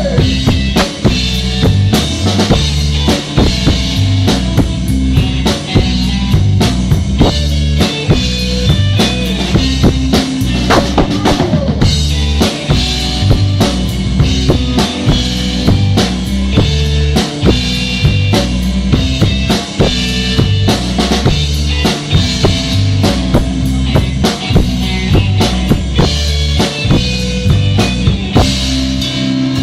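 Rock band playing an instrumental passage: a drum kit keeps a steady beat of kick drum, snare and rimshots over bass and guitar.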